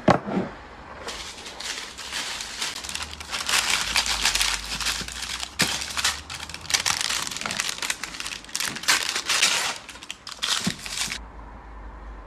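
Packaging crinkling and rustling as it is handled, a dense run of crackles and sharp clicks that starts about a second in and stops abruptly about a second before the end.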